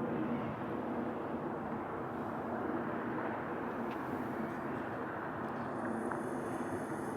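Steady low rumble with a faint hum, the sound of distant machinery or traffic. Near the end a faint high whine comes in.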